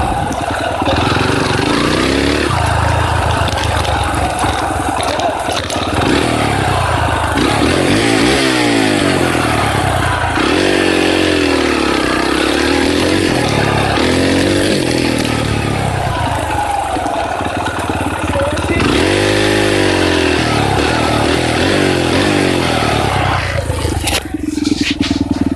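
Dirt bike engine running under riding load, its pitch repeatedly rising as the throttle opens and falling back as it shifts or eases off. Near the end it drops to a steadier, lower note.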